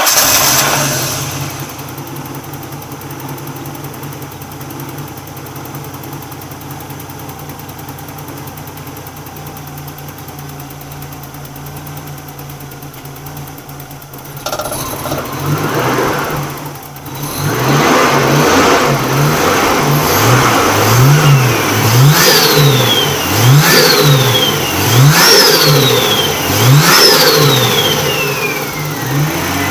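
Nissan RB30 straight-six engine runs at a steady idle, then is revved: first a longer rev about halfway through, then a string of quick throttle blips about one a second. It runs smoothly with no misfire, which the owner puts down to a dirty distributor cam angle sensor that he has just cleaned.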